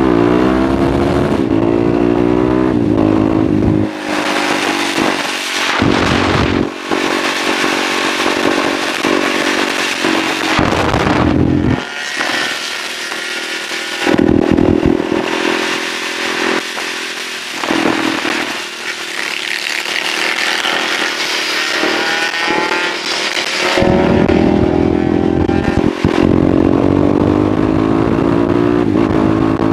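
Husqvarna SMR630 supermoto's single-cylinder four-stroke engine accelerating hard through the gears, the engine note rising and then dipping briefly at each shift, about four times, with wind rushing over the onboard microphone.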